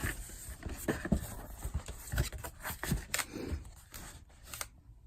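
Packing paper rustling and crinkling, with scattered light clicks and knocks of handling, as it is pulled out of an opened cardboard box.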